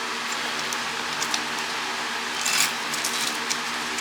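Steady whir of a fan running, with a few light metallic clicks and clinks from hand tools and motor parts being handled, a short cluster of them about two and a half seconds in.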